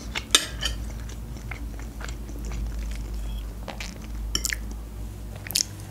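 Close-miked chewing of soft oven-baked omelette, with small wet mouth clicks and smacks at irregular moments, over a steady low hum.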